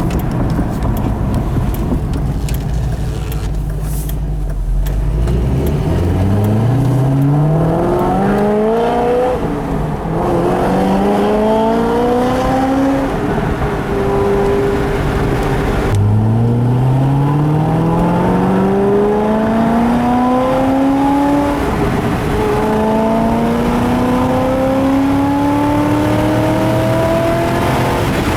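C6 Corvette's LS2 V8 through Kooks long-tube headers and a Corsa X-pipe and Sport cat-back exhaust, running steadily at first and then accelerating hard, its pitch rising and dropping back at each gear change.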